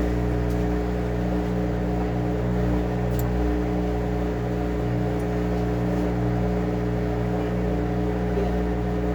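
Washing machine running at a steady speed: a constant motor hum with a low rumble.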